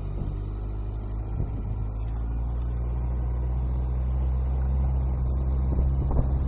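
Motorcycle engine running steadily at low revs, slowly getting a little louder.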